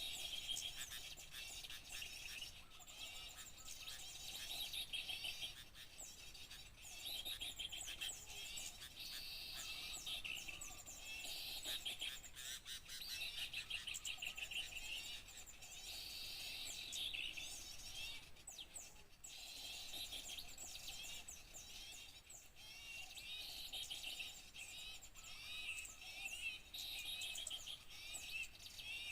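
Many small songbirds chirping and twittering at once in a dense, continuous chatter, as played in a bird-lure (pikat) recording to attract small birds.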